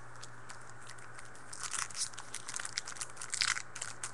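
Foil trading card pack wrapper being torn open and crinkled: a dense run of crackling rustles that starts about a second and a half in, over a low steady hum.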